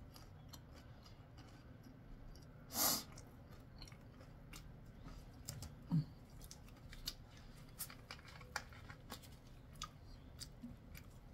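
Close-miked chewing of crispy fried chicken: soft crunches and wet mouth clicks, with a short breathy rush just before three seconds in and a brief low sound about six seconds in. More scattered clicks follow as gloved hands move.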